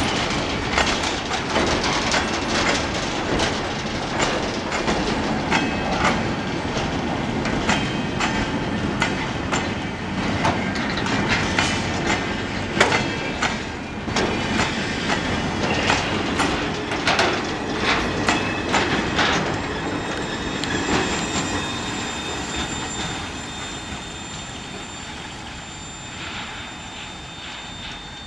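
Freight wagons (ballast hoppers and container flat cars) rolling past, steel wheels clicking and knocking over the rail joints. A thin, high wheel squeal comes in during the second half as the train passes and the sound fades away.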